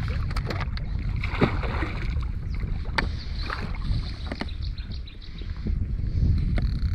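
Water lapping against a moored boat's hull with wind buffeting the microphone as a steady low rumble, and scattered sharp clicks and knocks from on board.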